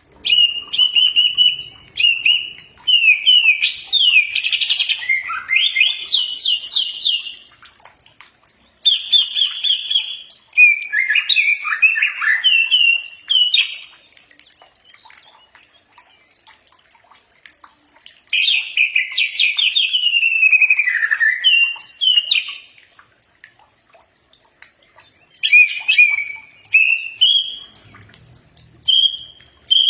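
Cucak ijo (green leafbird) singing in bursts of fast, varied chirping and trilled phrases that jump about in pitch, with pauses of a few seconds between bursts.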